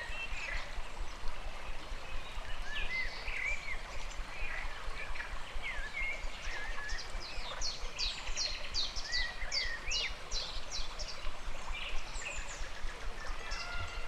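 Steady running water of a stream, with several birds chirping and whistling over it. About halfway through comes a run of quick, high, falling whistle notes, a couple to a second.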